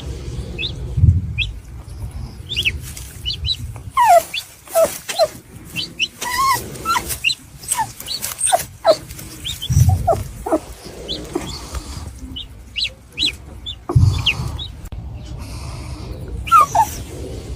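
Puppy whimpering and yelping in many short, high squeaks, with a few low thumps underneath.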